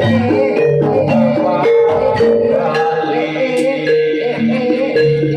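Javanese gamelan music: metallophones struck with mallets, playing a steady stream of repeating, stepwise notes.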